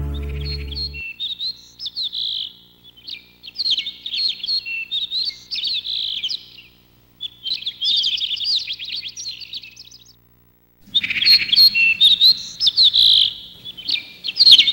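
Songbird singing: a rapid twittering of high chirps and trills, in three runs broken by short pauses. The last chord of the song dies away in the first second.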